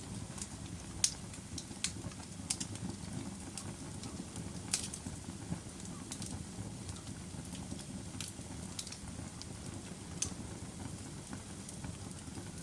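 Wood fire in a fireplace crackling: a steady low rumble of flames with irregular sharp pops and snaps, the loudest about a second in and near the five-second mark.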